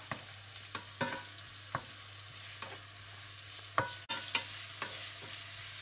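Diced serrano ham and sliced garlic sizzling in hot olive oil in a frying pan, being sautéed. A wooden spatula stirs them, with short scrapes and taps against the pan every second or so.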